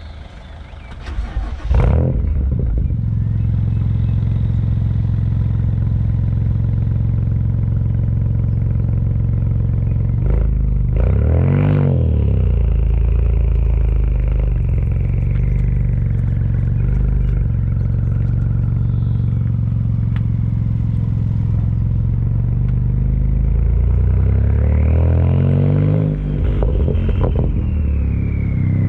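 BMW 335i's N54 twin-turbo inline-six, breathing through a dual 3-inch exhaust with an MG Motorsport muffler and Magnaflow sport secondary cats, starts up about two seconds in and settles to a steady idle. It is revved twice: a short blip near the middle and a longer rev near the end.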